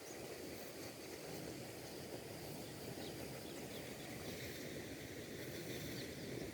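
Faint steady outdoor background noise, mostly low, with a few faint high chirps.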